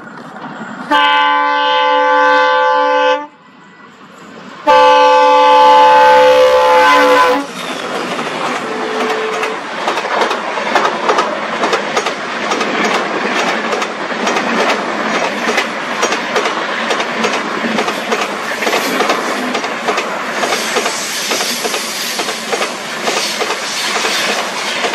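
Indian Railways locomotive horn sounding two long blasts, each a chord of several tones, with a short gap between. Then the train passes, its wheels clattering steadily over the rail joints.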